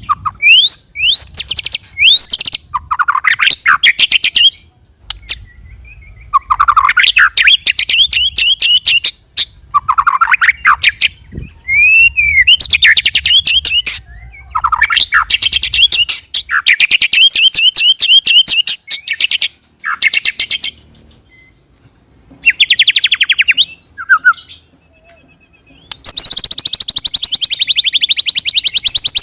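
White-rumped shama (murai batu) singing in loud bursts of fast rolling trills and rapid repeated notes, mixed with rising slurred whistles, with short pauses between phrases.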